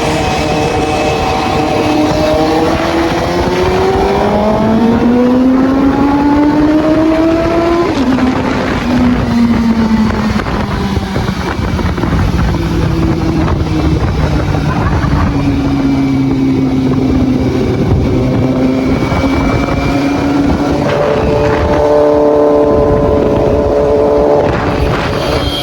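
Suzuki GSX-S750's inline-four engine under way, its pitch climbing under acceleration for several seconds and then falling abruptly, then holding steady before rising again near the end. Wind rushes over the microphone throughout.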